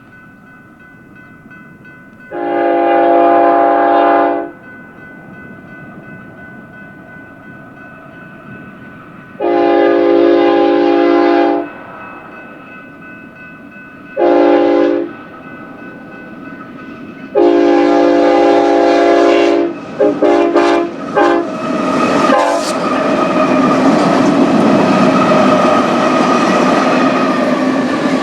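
Freight diesel locomotive's multi-chime air horn sounding the grade-crossing signal, long, long, short, long, with the last blast broken into several quick toots. About 22 seconds in, the locomotive reaches the microphone and a loud rumble of engine and wheels on rail takes over as the stack train rolls past.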